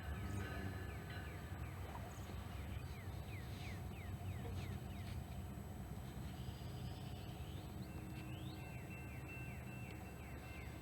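Low rumble of a train moving on after sounding its horn, slowly fading. Two runs of short, high, falling chirps come through, about three seconds in and again near the end.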